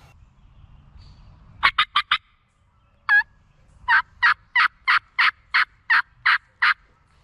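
Turkey yelping: four quick notes, a single note, then a run of about nine evenly spaced yelps at roughly three a second.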